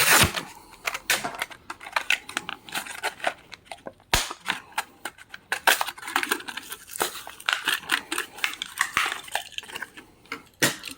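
Plastic blister packaging of a die-cast toy car crinkling and crackling as it is handled, with an irregular run of clicks and a sharp snap about four seconds in.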